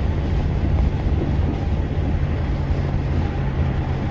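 Truck driving up a slushy, snow-covered grade: a steady low drone of engine and tyres that holds even throughout.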